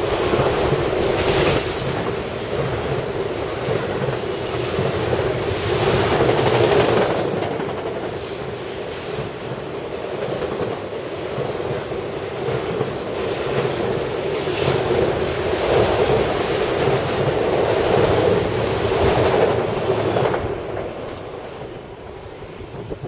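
Freight train of enclosed autorack cars rolling past close by: steady wheel-on-rail noise with a clickety-clack over the rail joints and a couple of brief high squeals from the wheels. The sound fades about twenty seconds in as the last car goes by.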